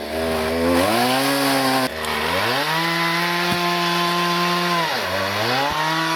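New two-stroke chainsaw, still being run in, revving up and cutting wood. It climbs to full speed twice in the first few seconds and holds high for about two seconds. Near the end the revs drop briefly and then rise again.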